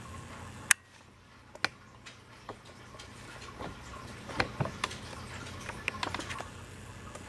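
Scattered sharp clicks and small ticks, the loudest just under a second in and a cluster of softer ones in the second half. A low steady hum cuts out at the first loud click.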